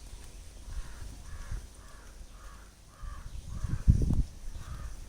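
A bird calling over and over, about two short harsh calls a second. A few low thumps near four seconds in are louder than the calls.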